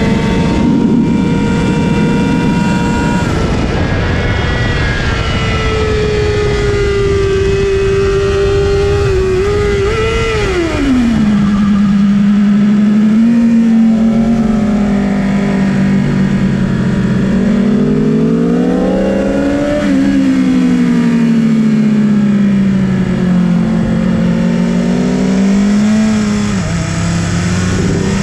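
2019 BMW S 1000 RR's inline-four engine at high revs, with heavy wind rush on the microphone. About ten seconds in, the engine's pitch falls steeply as the bike slows hard for a corner. It then rises and falls with the throttle through the following bends.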